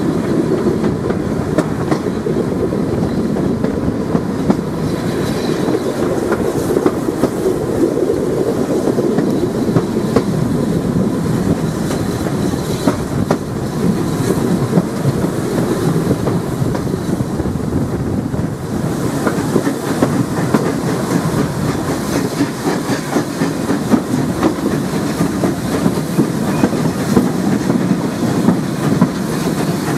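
Steam-hauled heritage passenger train running along the line: a steady rumble with irregular clicking and clatter from the wheels on the track.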